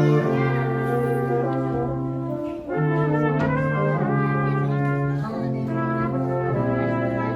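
Brass quartet playing slow sustained chords over a steady bass note, the harmony moving on three or four times, with a brief break in the sound a little before halfway.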